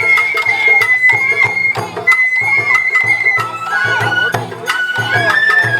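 Sawara-bayashi festival music played on a float: a high bamboo flute holds long notes and shifts to lower notes about halfway through, over a steady beat of drum strikes.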